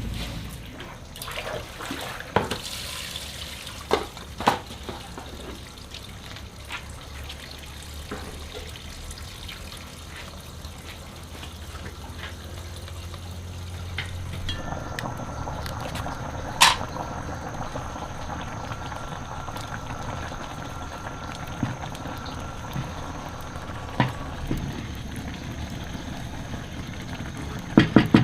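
Water pouring and trickling, with a few sharp knocks and a faint steady whine in the middle stretch.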